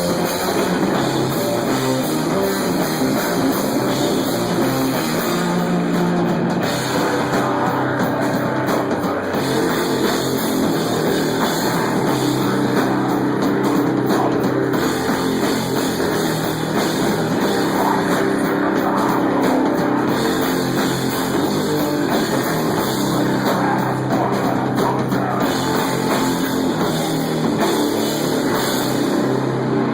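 Live stoner metal band playing loudly and without a break: electric guitar over a drum kit.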